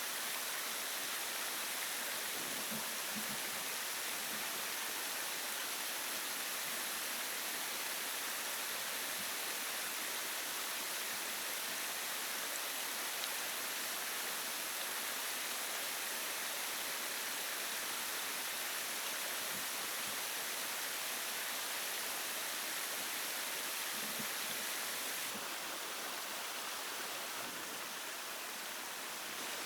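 Steady rushing of flowing water, even and unbroken; it drops slightly in level about 25 seconds in.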